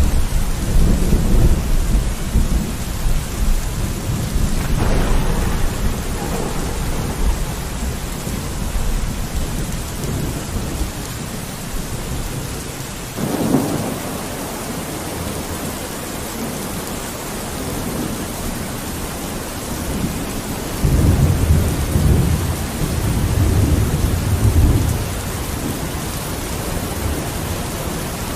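Steady rain with rolling thunder: low rumbles at the start and again about three quarters of the way through, and two sharper claps in between.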